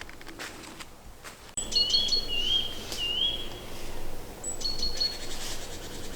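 Wild songbird singing in woodland, short whistled phrases of high notes and rising curling notes, the song coming in suddenly about a second and a half in and repeating a few seconds later. Faint footsteps before the song.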